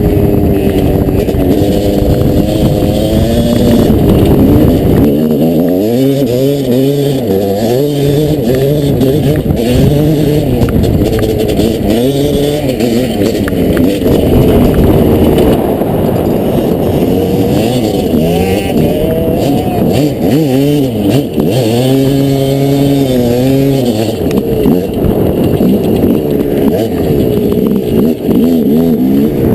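Dirt bike engine revving hard and easing off again and again, its pitch rising and falling as it accelerates and shifts.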